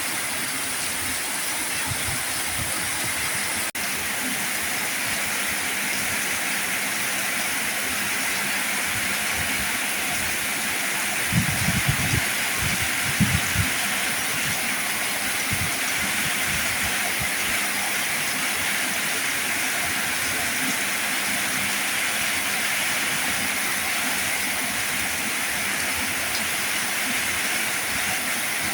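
Heavy rain falling in a steady, dense hiss. About halfway through come a few low thuds.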